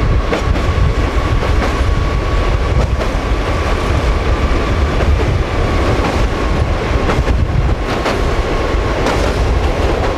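A train running across the Amarube steel trestle viaduct, heard from on board: a loud steady rumble of wheels on rail, with irregular clacks over the rail joints and a faint steady whine.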